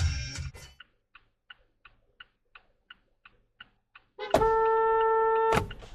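Faint rapid ticking, about three ticks a second, then a single loud, steady horn blast lasting just over a second that cuts off sharply.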